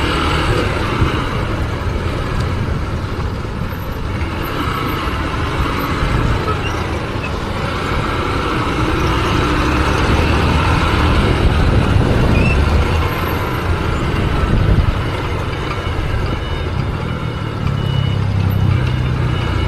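A motorcycle on the move, with steady engine and road noise.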